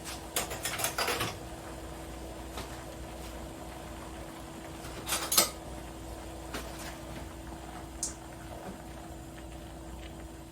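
Short bursts of kitchen clatter, dishes or utensils knocking, about a second in and again louder about five seconds in, with a single sharp click near eight seconds. Underneath runs a steady low hum.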